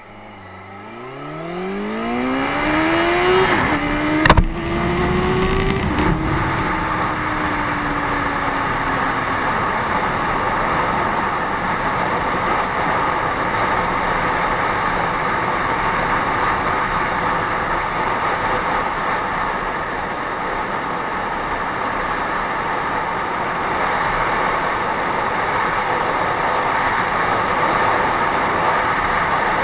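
Honda CBR650F's inline-four engine revving hard under full acceleration, its pitch climbing steeply. It drops at an upshift about three and a half seconds in, with a sharp click shortly after, then climbs again until another shift around six seconds. After that the engine note falls away under a steady rush of wind for the rest.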